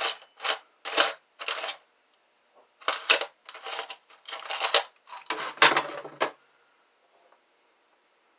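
Small metal jewellery tools clinking and clattering against each other and the workbench, a string of short rattles over about six seconds.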